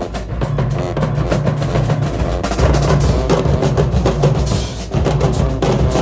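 High school marching band playing: the drumline's snares and bass drums keep a busy, driving beat under the horns.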